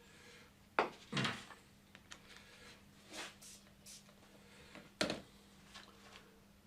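Small 3D-printed plastic parts and tools handled on a workbench: a few sharp clicks and knocks, the loudest about a second in and again about five seconds in, with lighter clicks and rustles between, over a faint steady hum.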